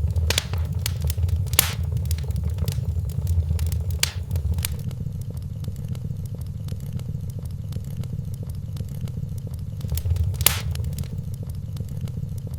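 Wood fire in a fireplace crackling, with many small irregular snaps and a few louder pops, about a second and a half, four seconds and ten seconds in, over a steady low rumble.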